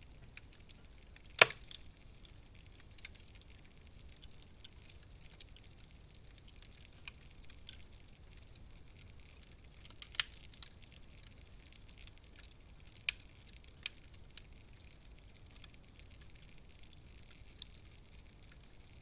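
Wood fire crackling in a fireplace: a faint steady hiss with scattered sharp pops, the loudest about a second and a half in and a few more around the middle and later.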